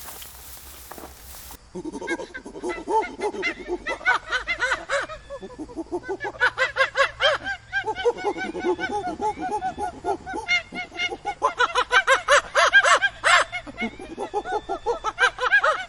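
A group of animals calling over each other in many short, rapid, overlapping calls, starting abruptly about two seconds in and continuing throughout.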